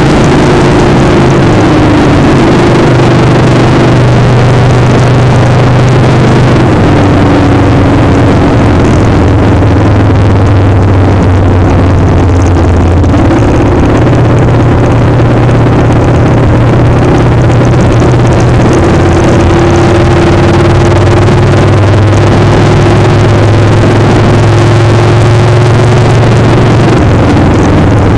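Motorcycle engine running under way, its pitch shifting up and down several times as the speed changes, under loud wind rushing across the microphone.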